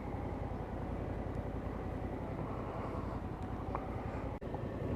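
Motorcycle engine running at low city speed, a steady low rumble with road and wind noise heard from the rider's seat.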